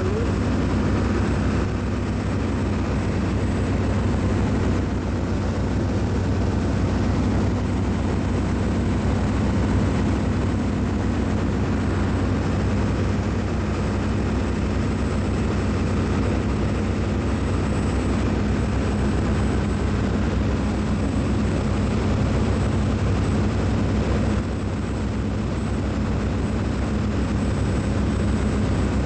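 Steady low mechanical drone with a thin high whine above it, easing slightly about 24 seconds in: the running noise of a large ship's machinery.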